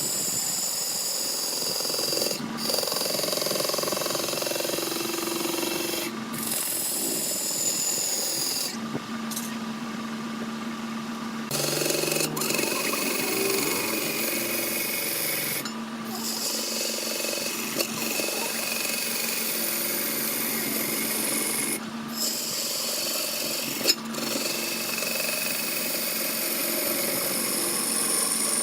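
Wood being turned on a lathe: a tool scraping and cutting into spinning wood over a steady motor hum, with the sound breaking off and changing abruptly several times.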